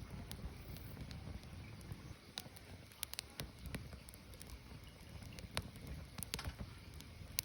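Burning firewood crackling: irregular sharp pops and snaps over a low steady rumble of the fire.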